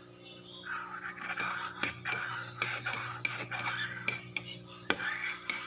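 Cutlery and dishes clinking and scraping, with a string of sharp clicks, over a low steady hum.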